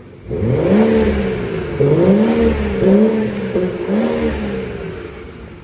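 BMW M240i's turbocharged straight-six engine, through an M Performance exhaust, revved in four short blips of the throttle, each rising and falling back toward idle.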